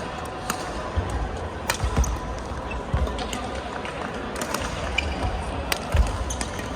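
Racket-sport rally on a court: sharp hits of the ball or shuttle with low thumps of players' footfalls, spaced irregularly over a steady background of hall noise.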